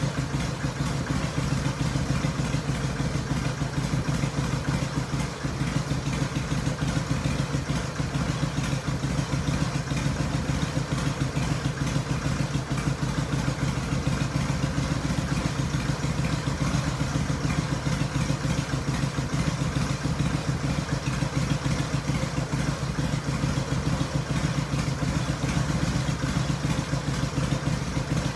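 2001 Harley-Davidson Sportster XLH883's air-cooled V-twin engine idling steadily.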